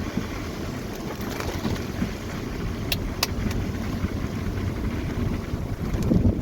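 Car travelling on a rough, storm-damaged dirt road: a steady low rumble of engine and tyres, with two sharp clicks about three seconds in.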